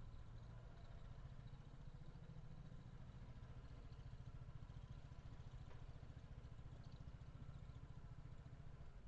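Faint, steady low rumble of a car running, heard from inside the car.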